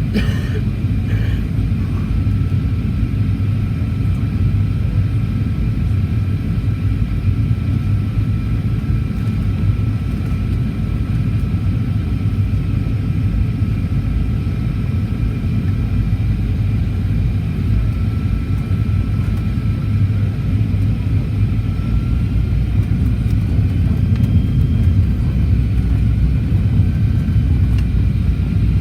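Cabin noise inside a Boeing 737-800: a steady low rumble from its CFM56-7B engines and the airframe, with a thin whine that wavers up and down in pitch near the end.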